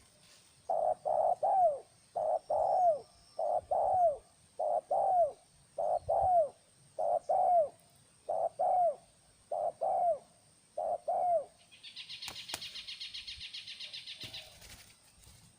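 Spotted dove (terkukur) cooing: about nine phrases in a row, each two or three low coos. Near the end a high, fast-pulsing buzz follows for about three seconds.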